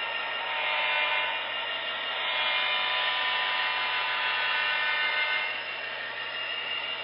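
HO scale model locomotive running on the track, its small electric motor giving a steady whine that grows louder for a few seconds and drops off about five and a half seconds in.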